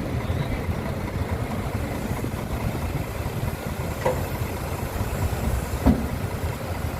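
A heavy engine running steadily with a low rumble, with a brief sharp knock just before the end.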